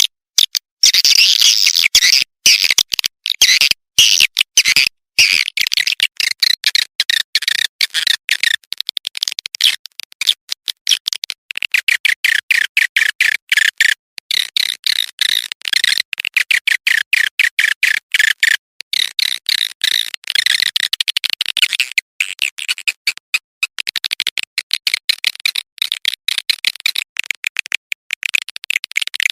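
Recorded swiftlet calls of the kind played through a speaker to lure swiftlets: a dense, rapid, high-pitched chirping and twittering, many short calls in quick succession with brief gaps.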